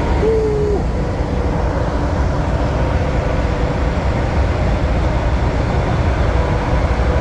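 Heavy truck traffic at motorway speed, most likely a Scania V8 truck: a steady, loud low rumble of engine and road noise with a steady hum over it. A short hooting tone comes about half a second in.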